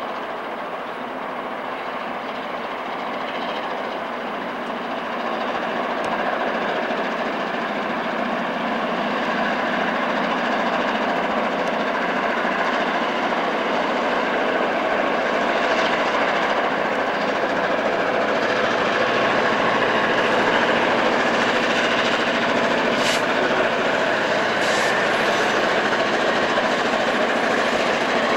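Diesel freight locomotive and train running past, a steady engine drone with the rumble of the cars, growing louder over the first two-thirds as it comes closer. A few sharp clicks near the end.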